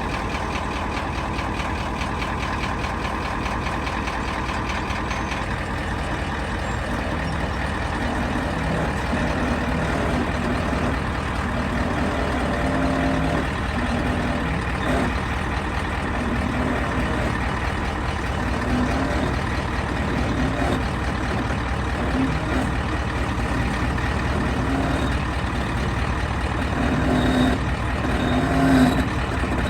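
Ford F350's 7.3-litre diesel engine running steadily at low revs, with short surges in the engine note from about a dozen seconds in. A louder knock comes near the end.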